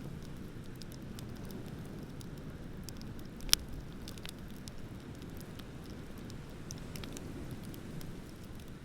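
Beach bonfire crackling, with scattered small pops and one sharp, loud pop about three and a half seconds in, over a steady low rush of ocean surf.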